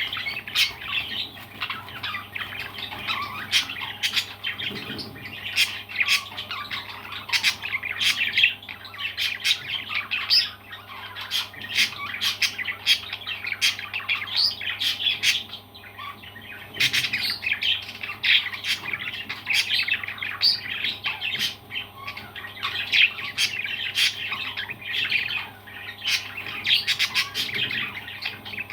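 Parrots squawking and chirping in a steady stream of short, rapid calls, with a brief lull about sixteen seconds in.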